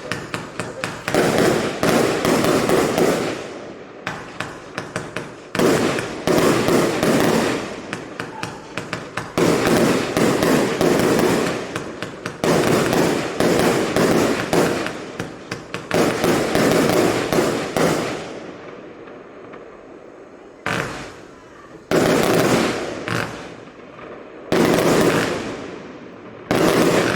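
A 120-shot compound firework cake firing: rapid volleys of tubes launching and stars bursting with crackle, in waves a few seconds apart. Near the end come a few separate, heavier bursts.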